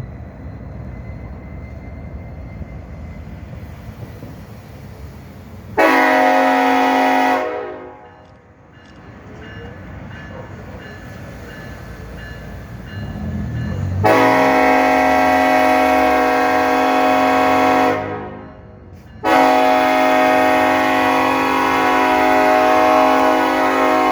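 EMD SD70ACe diesel locomotive sounding its multi-note air horn: a short blast about six seconds in, then a long blast from about fourteen seconds that breaks off for a moment near nineteen seconds and resumes. Under and between the blasts, a steady low rumble from the locomotive.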